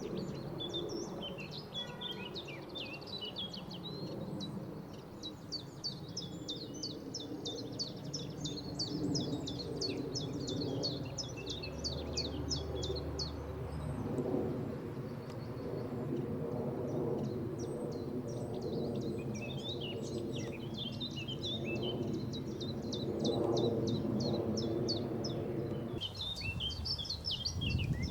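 Songbirds singing in fast runs of high chirping notes, with a short pause about halfway, over a steady low drone of several held tones that grows louder in the second half.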